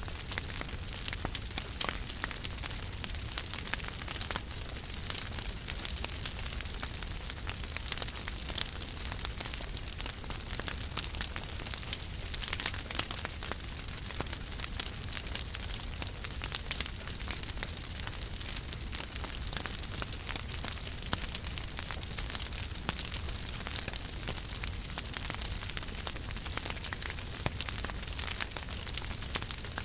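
Wood fire burning in a fireplace, with a steady hiss and frequent small crackles and pops over a low rumble.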